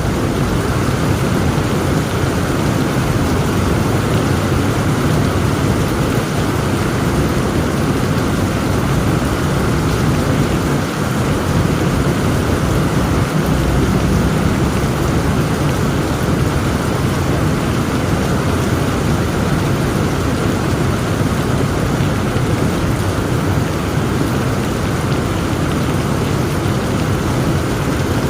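Heavy rain falling steadily under a continuous low rumble of thunder, with no sharp cracks.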